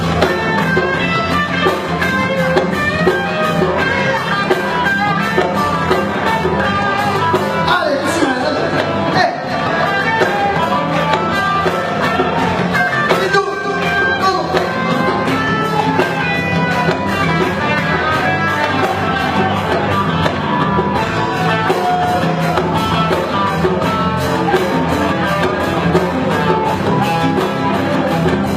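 Live band music with a steady beat and no sung words.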